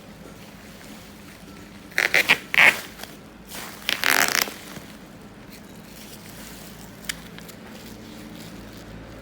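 Laptop packaging being torn open: two short bursts of tearing noise, about two seconds in and again about four seconds in, with a single faint click near the end over a steady low hum.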